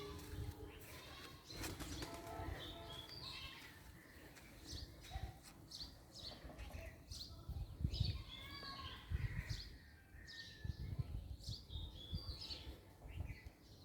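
Small birds chirping and calling repeatedly in short, varied phrases, over irregular low rumbling bumps that are loudest in the second half.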